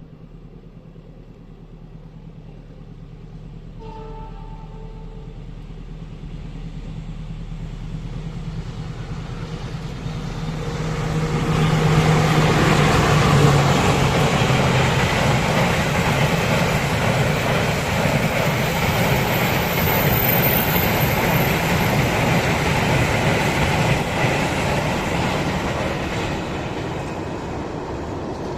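A CC 206 diesel-electric locomotive hauling a passenger train approaches and passes, with a short horn blast about four seconds in. The sound grows steadily louder, and the locomotive's engine is loudest as it goes by about twelve seconds in. The coaches then rumble and clatter past on the rails, easing off near the end.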